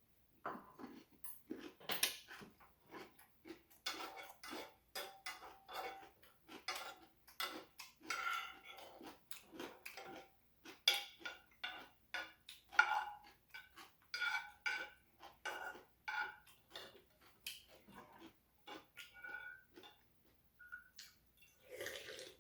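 Eating utensils clinking and scraping against a bowl during a ramen meal, with many short clicks and light ringing knocks, about two to three a second.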